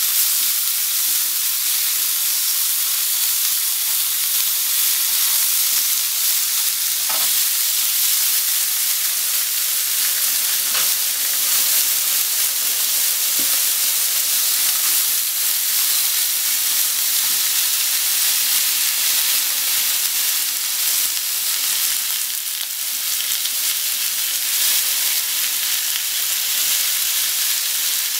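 Thin slices of pork sizzling steadily in hot fat in a nonstick frying pan.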